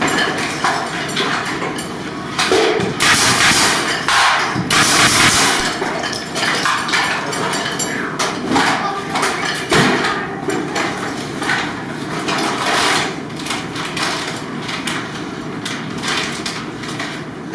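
Repeated knocking and hammering on wood while a reinforcement piece is fitted into a gypsum-board ceiling for a pendant light, with two longer scraping rasps about three and five seconds in.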